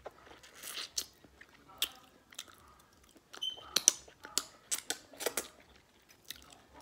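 A person eating, chewing with wet mouth smacks and clicks that come irregularly.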